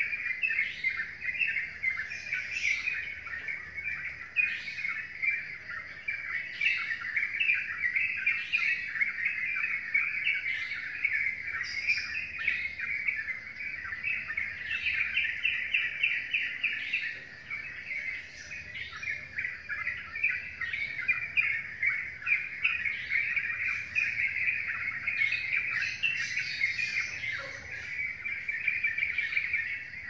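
Birdsong: dense, continuous chirping and twittering, with a sharper, higher note recurring about every two seconds.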